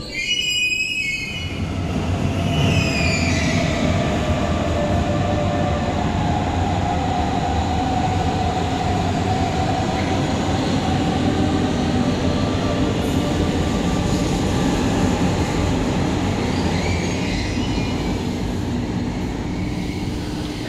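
Hamburg S-Bahn electric train in an underground station, a steady loud rumble of wheels on rails. A high whine falls in pitch about two seconds in and another comes briefly near the end, with some wheel squeal.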